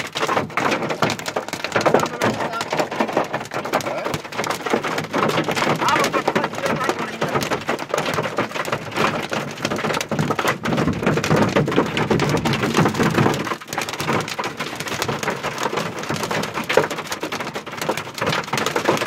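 Heavy rain mixed with hail, falling hard and striking surfaces in a dense, continuous patter of small hits.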